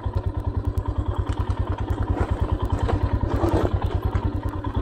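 Motorcycle engine running at low revs with a steady, rapid thumping beat as the bike is eased down a rocky slope. A few light knocks and clatter come through in the middle.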